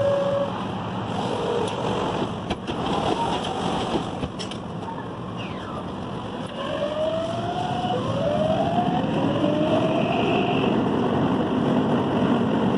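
Inside an electric commuter train: a short chime tone, a couple of knocks as the doors close, then the train pulling away, its traction motors whining upward in pitch in successive rising steps as it accelerates over a steady running rumble.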